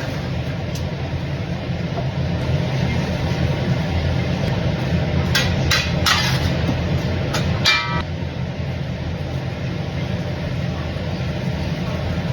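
A steady low rumble, with a handful of sharp clinks about five to eight seconds in, the last one ringing briefly.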